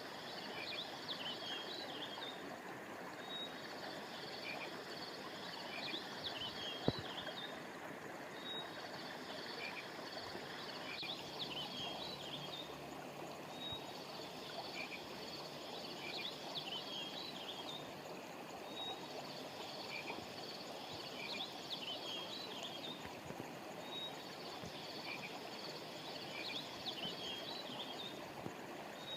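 River water flowing steadily, with high chirping calls repeating in near-identical groups about every three seconds. A single sharp click comes about seven seconds in.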